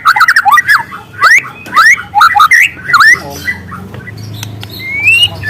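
Juvenile white-rumped shama singing: a run of quick chirps and sharp upward-sweeping whistles, a short lull, then a rising whistle near the end.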